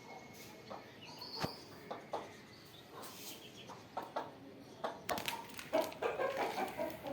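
Aseel chickens clucking now and then, with scattered light taps and scratches. The calls and taps come more often from about five seconds in.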